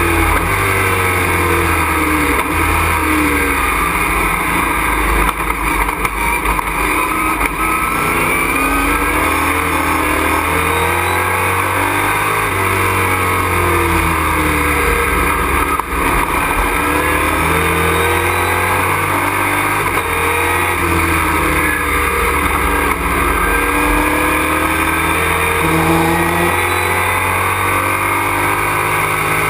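Race truck's engine heard from inside the cockpit, running hard, its pitch repeatedly climbing under acceleration and falling off into corners.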